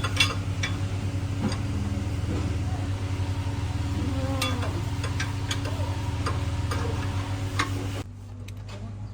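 A steady low engine hum with an even pulsing beat, with scattered sharp clicks and taps over it. The hum drops away suddenly about eight seconds in.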